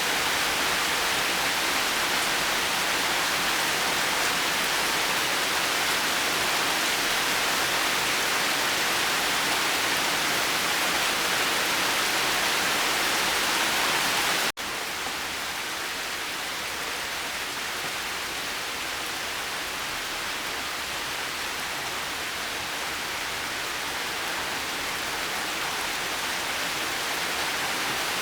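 Steady rain falling as an even hiss. About halfway it cuts out for a split second at a splice, then comes back a little quieter and slowly grows louder toward the end.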